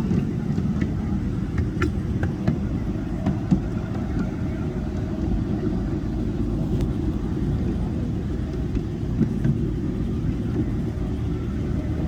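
Steady low rumble of a ride-on miniature railway train running along its track, with a few sharp clicks scattered through it.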